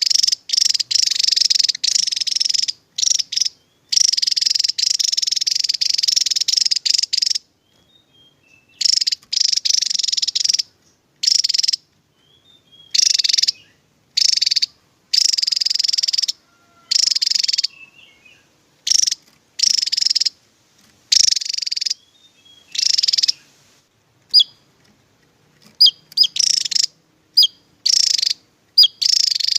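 Javan tesia singing its rapid-fire 'tembakan' song: repeated bursts of very fast, high-pitched trilling, each lasting from half a second to a few seconds, separated by short silences. Near the end come a few short, sharp notes.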